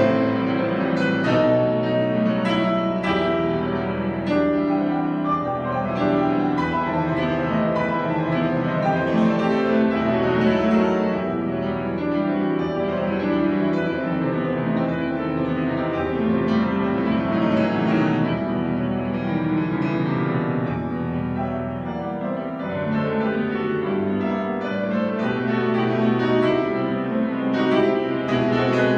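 Solo piano playing a classical piece, with dense, continuous runs of notes throughout.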